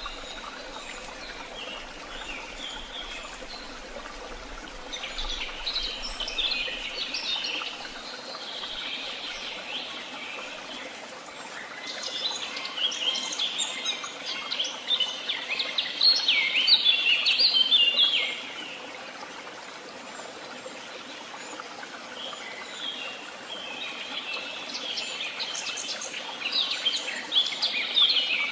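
Woodland songbirds singing in three long bouts of rapid, high chirping phrases over a steady background hiss. The middle bout is the loudest.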